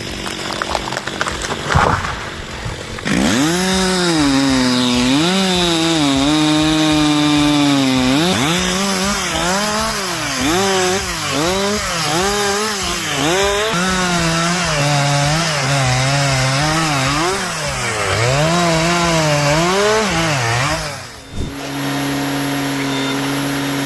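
Chainsaw running at high revs, its pitch dipping and recovering again and again as it cuts into wood. Near the end it gives way to a steady engine hum.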